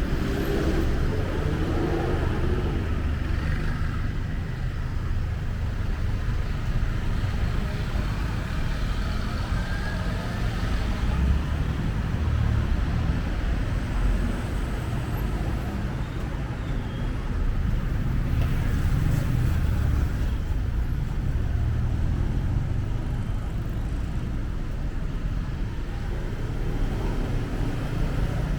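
Street traffic: cars and other motor vehicles running past in a steady low rumble that swells and fades as they go by.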